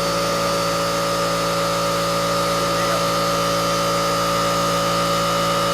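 Electric air compressor running steadily, a loud hum of constant pitch, used to put air in a tire that has a nail in it.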